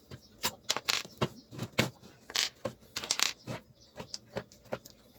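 Irregular sharp clicks and clinks, about a dozen in quick succession, from small hard parts and tools being handled during repair work.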